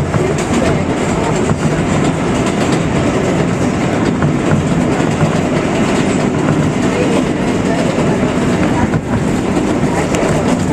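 New York City Subway 7 express train running at speed between stations, a steady loud rumble and rattle of steel wheels on the rails with some clickety-clack.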